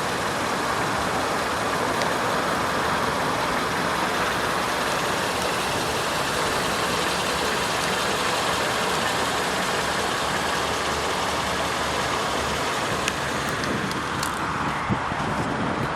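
2011 Kia Carens's 2.0-litre inline-four engine idling steadily, under a steady outdoor noise.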